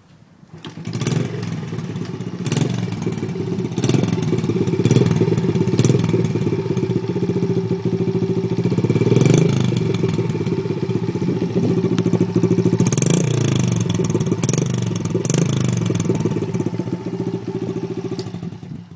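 Honda Chaly's small four-stroke single-cylinder engine running through a hand-bent Suzuki DR-Z70 stock muffler with its baffle cut, a steady loud exhaust note with the throttle blipped twice. It cuts off suddenly near the end.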